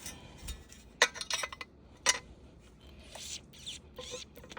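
Parts of a 60 CFM exhaust fan motor being handled and fitted together, making small hard clicks and clinks. There are two sharp clicks, about one and two seconds in, then a brief scrape and a light knock near the end.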